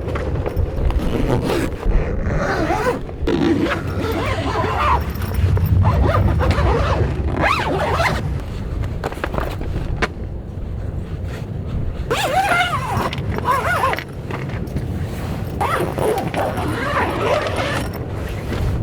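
Strong gusting wind buffeting the microphone with a heavy low rumble, and rising and falling howls now and then as gusts pass. Scattered clicks and rustles of handling sit under the wind.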